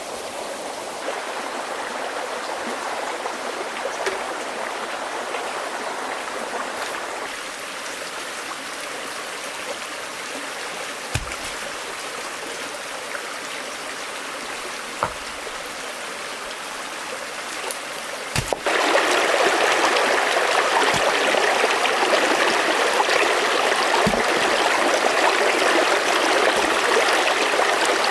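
Stream water flowing steadily, with a few faint knocks. About two-thirds of the way through it turns suddenly louder and brighter, as if much closer to the running water.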